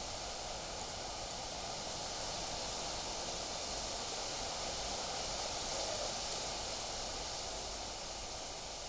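Wind blowing through trees and leaves, a steady rushing hiss with a low rumble of wind on the microphone, swelling into a slightly stronger gust a little past halfway.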